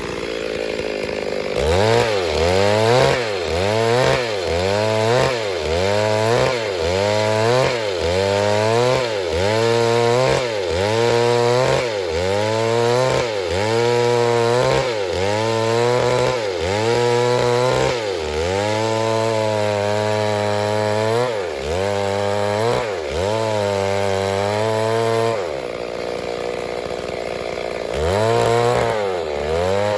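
Stihl MS 382 two-stroke chainsaw running hard in a cut, its engine pitch sagging under load and recovering about once a second as the bar is worked back and forth through the wood. Near the end the engine note holds steady for a few seconds before the sagging resumes.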